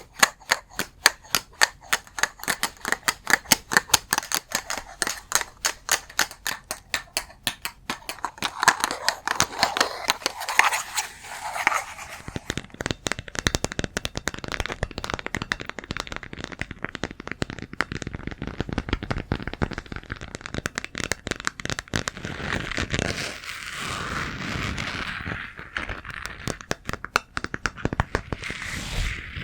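ASMR tapping: sharp, even taps at several a second for the first eight seconds or so, then faster, denser tapping mixed with a scratchy sound.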